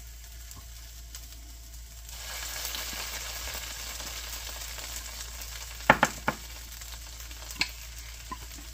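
Masaman curry paste sizzling and crackling in a hot non-stick frying pan; the sizzle sets in about two seconds in and keeps going. A few sharp knocks come in the second half.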